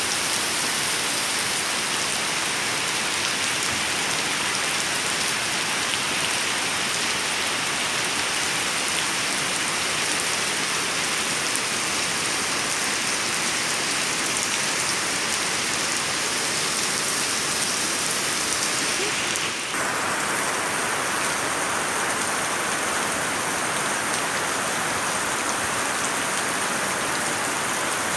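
Steady, dense rain falling, an even hiss of many drops. About two-thirds of the way through it dips for a moment and its texture shifts slightly.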